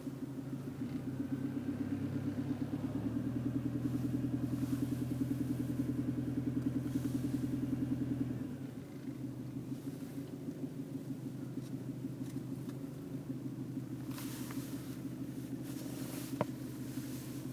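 1995 Honda Civic's D16Z6 1.6-litre four-cylinder engine running with a steady, rhythmic pulsing knock, which the owner takes for a possible rod or wrist-pin knock. The engine note comes up a little about three seconds in and drops back about eight seconds in; a sharp click or two sounds near the end.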